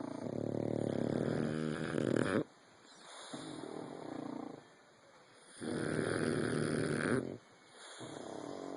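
Flat-faced dog snoring in slow, regular breaths: two loud, long snores, each followed by a softer breath.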